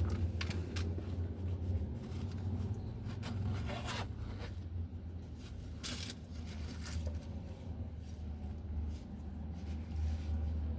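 Steady low hum of an idling car heard from inside the cabin, with scattered short rustling and scraping sounds.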